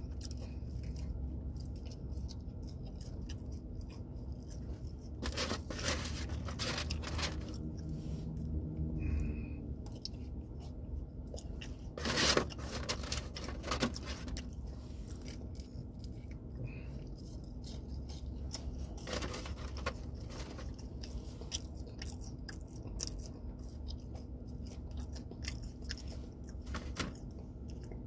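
Chewing and crunching on crispy tacos, in scattered crackly bites, with a louder rustle about twelve seconds in, over a steady low hum.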